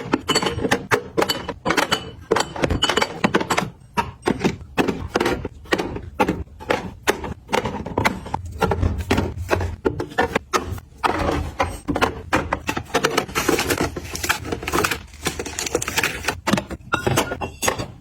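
Quick, irregular clicks, taps and clatter of small hard containers being handled and set down one after another, as when products are unpacked and arranged.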